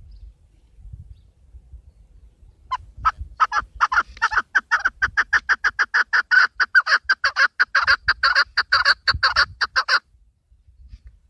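Chukar partridge calling: a long series of short clucking notes that begins slowly about three seconds in, speeds up to about six notes a second, and stops abruptly about a second before the end.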